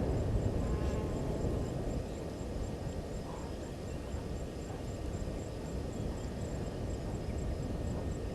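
Insects in the bush, with a thin high chirp repeating evenly about four times a second over steady low noise.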